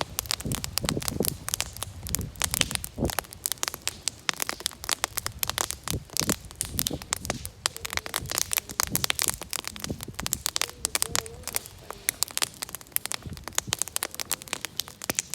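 A fire crackling, with dense, irregular sharp pops and snaps. A faint wavering whistle comes in about halfway through.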